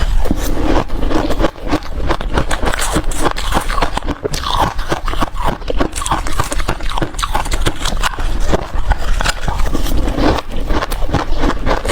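Ice cubes being bitten and chewed close to the microphone: a dense, continuous run of sharp cracks and crunches.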